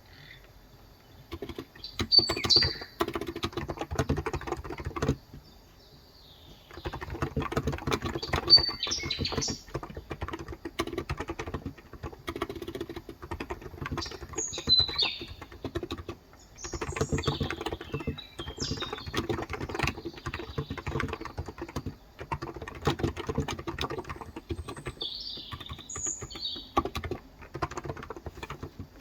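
Fast typing on a Cox Endeavor tenkeyless keyboard with 35 g electro-capacitive (non-contact) switches, in runs of keystrokes broken by short pauses. Birds chirp several times in the background.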